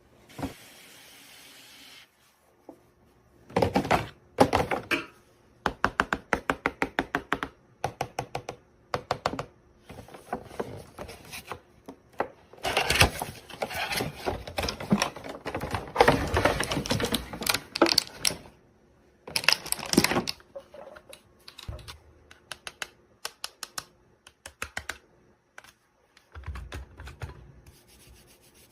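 Hands unboxing an item: runs of sharp clicks and taps, with bursts of rustling and crinkling packaging.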